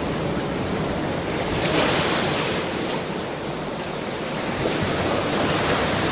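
Ocean surf: waves breaking and washing ashore in a steady rushing hiss that swells a little just under two seconds in.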